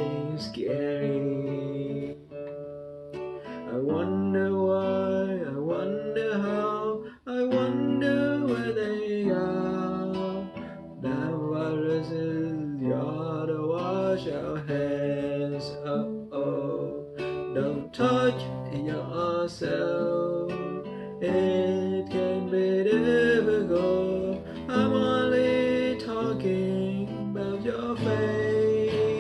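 Strummed acoustic guitar accompanying a sung melody in a slow pop ballad, the voice gliding and wavering between phrases.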